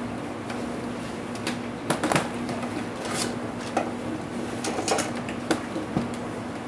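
Scattered small clicks and taps of hard plastic and metal laptop parts being handled and worked on during disassembly, over a steady low hum.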